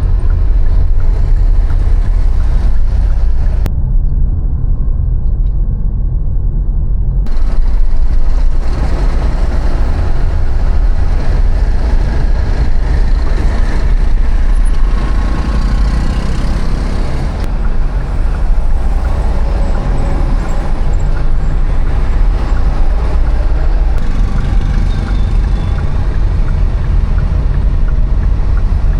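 Steady city-street traffic noise, vehicles passing, under a heavy low rumble.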